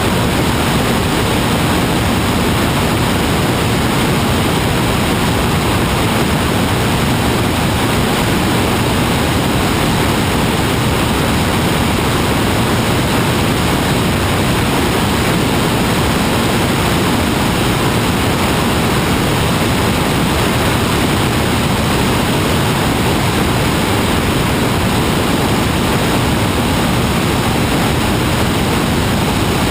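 Steady, unbroken rushing noise that holds one level throughout.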